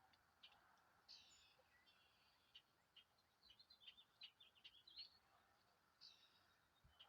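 Faint bird calls: a short harsh call about a second in and another near the end, with a run of quick high chirps in between.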